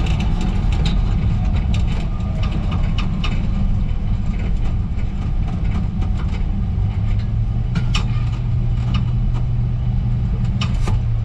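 Car engine running steadily with a deep low rumble, with scattered clicks and rattles over it.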